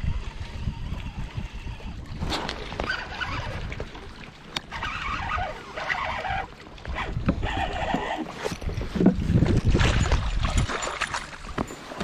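Wind buffeting the microphone and water splashing around a fishing kayak, with a few sharp knocks and rattles of gear on the hull.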